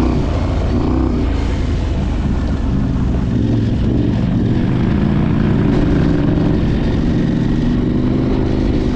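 Adventure motorcycle engine running steadily under way, holding a nearly even pitch, with rushing wind noise over it.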